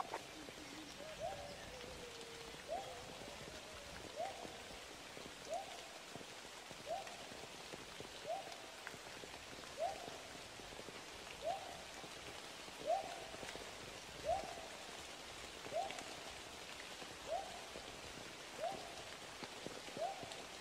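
A bird calling the same short, rising single note about every second and a half, some fourteen times, over a faint, steady hiss of forest background.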